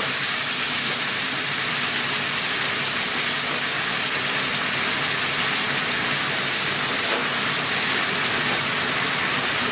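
Chicken in demi-glace sauce sizzling steadily in a hot pan, an even hiss with no break.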